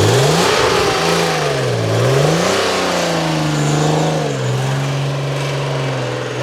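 A car engine being revved from idle: the pitch climbs sharply at the start, rises and falls a few times, then holds at a raised speed for a couple of seconds before another quick rev right at the end.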